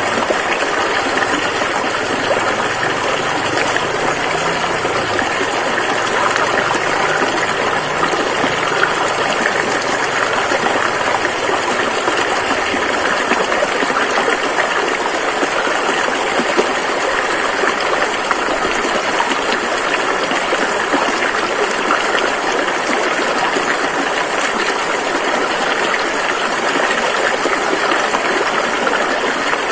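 Rushing river water flowing steadily, an even, unbroken rush.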